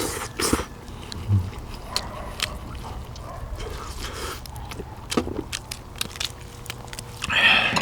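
Close-up eating sounds from a bowl of pork bone soup: chewing and biting meat off the bones, with scattered wet clicks and smacks, and a louder noisy burst near the end.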